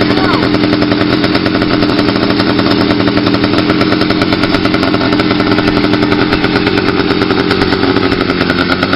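80cc two-stroke motorized bicycle engine running steadily with its exhaust baffle removed, so the exhaust is unmuffled; loud, with a fast, even firing beat.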